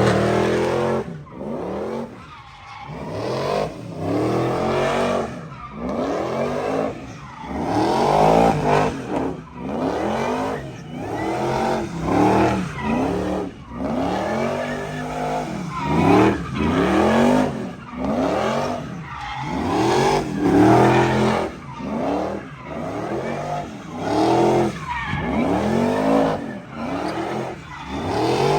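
A car engine revving hard up and down over and over, roughly once a second, with tire squeal from a burnout or drift run.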